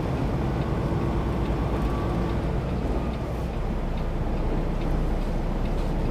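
Semi-truck's diesel engine running steadily with a constant low rumble.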